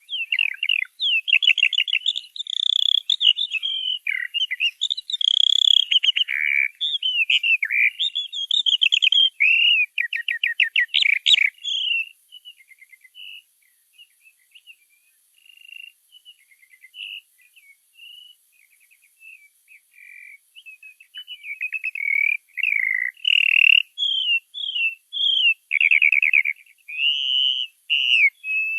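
Small bird chirping and twittering in quick runs of high notes and rapid trills. The calls are dense and loud at first, turn sparse and soft about twelve seconds in, and pick up loud again about twenty-two seconds in.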